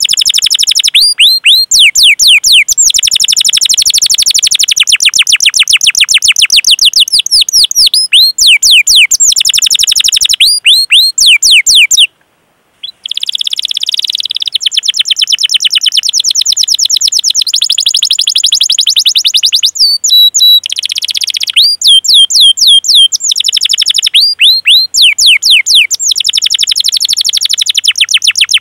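Domestic canary singing a fast series of sharp, falling 'cuit cuit' chirps, several a second, in long runs that shift into rolling trills. There is a brief break about twelve seconds in.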